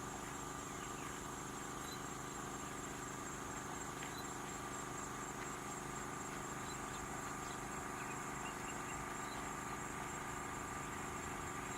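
Steady chorus of insects, a continuous high buzz, over a faint low hum, with a few faint short chirps scattered through it.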